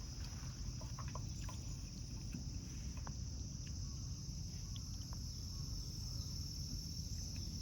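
A late-summer insect chorus: a steady, high-pitched drone running without a break, over a low outdoor rumble, with a few faint clicks.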